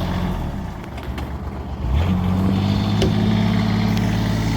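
A vehicle engine running with a steady low hum. It eases off briefly, then picks up again, louder and slightly higher, about two seconds in.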